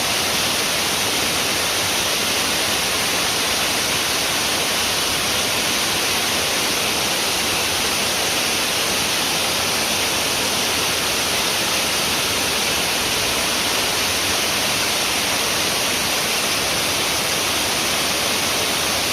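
Waterfall: water falling and flowing in a loud, steady, even rush that does not change.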